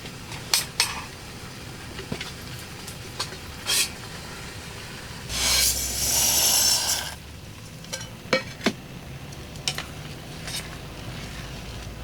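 Scattered light clinks and taps of utensils or cookware being handled over a steady hiss of rain, with a loud hiss of about two seconds near the middle.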